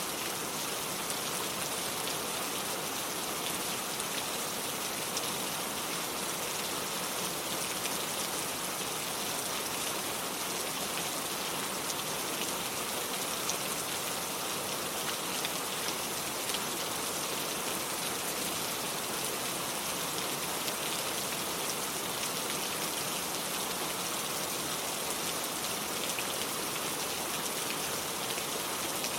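Steady rain falling on hard surfaces, an even hiss with fine scattered drop ticks.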